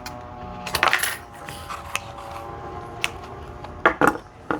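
Light metallic clinks and taps as small pieces of nickel strip are handled and set down on a workbench, about six sharp clicks with a cluster about a second in and more near the end.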